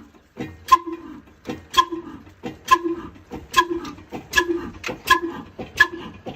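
Old slow-speed 22 hp diesel engine running just after starting, each firing stroke a sharp exhaust bang about once a second. The beats come closer together through the first few seconds, then settle at a little under one a second as the engine picks up speed.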